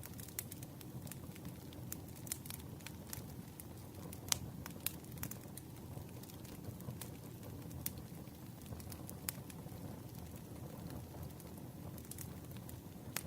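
Campfire crackling: a steady low rumble of burning wood with scattered sharp pops and snaps, the loudest a little over four seconds in.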